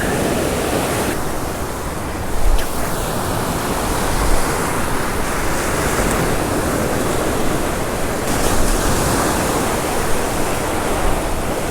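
Ocean surf washing on the beach in a steady hiss, with wind buffeting the microphone.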